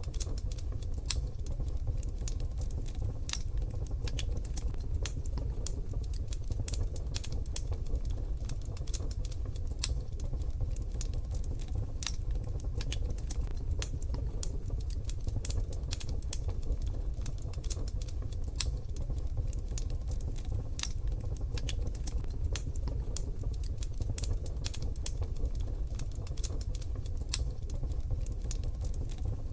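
Wood fire in a wood-burning stove crackling: a dense, irregular run of sharp little pops and snaps over a steady low rumble.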